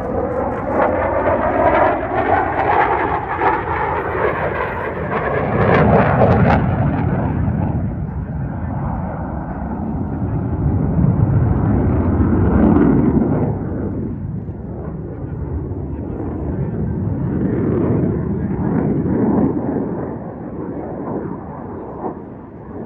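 HAL Tejas fighter's single General Electric F404 turbofan in a flying display. A rising whine over the first few seconds gives way to loud rushing jet noise that swells and fades several times as the jet passes and turns.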